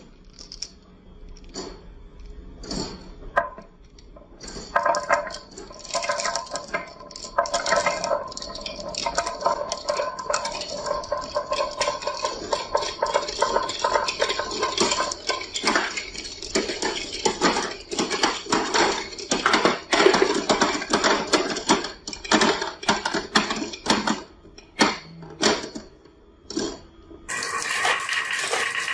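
Marbles clacking and rolling down a wooden HABA marble run: a few scattered clicks, then a dense rolling clatter of many marbles from about five seconds in that thins out to single knocks after about twenty-four seconds. Near the end it switches to a steady hiss.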